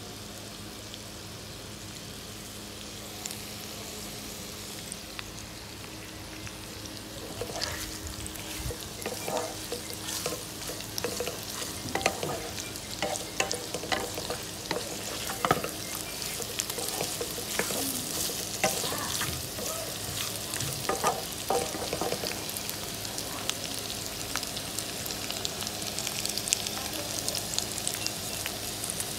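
Pork pieces sizzling as they dry-fry in their own rendered fat, with no added oil, in a nonstick wok. A wooden spatula scrapes and knocks against the pan as the meat is stirred, most busily from about seven seconds in until about twenty-two seconds in. A steady low hum sits underneath.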